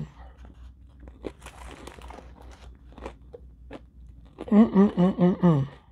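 Quiet crunching and clicking of crispy fried fish being bitten and chewed. About four and a half seconds in, a woman's voice makes short sounds for just over a second.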